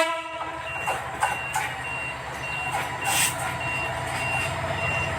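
Short electronic beeps repeating about one and a half times a second over the steady low throb of a diesel locomotive's engine. A horn blast cuts off just after the start, and a few knocks sound through.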